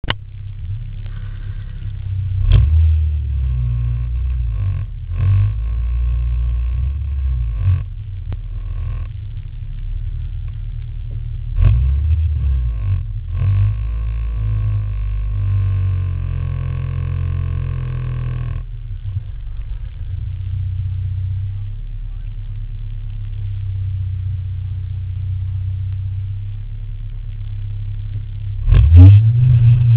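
Honda K20 inline-four in an EG Civic idling, heard from inside the cabin, with a few sharp knocks along the way. About a second before the end the engine revs hard and the car launches, the engine pitch climbing.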